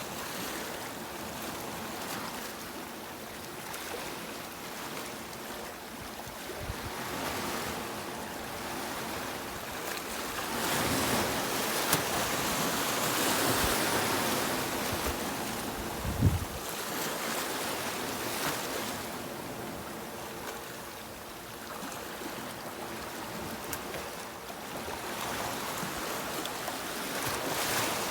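Sea surf washing onto a beach, swelling and easing off, with the loudest wash about halfway through. A brief low thump comes just after it.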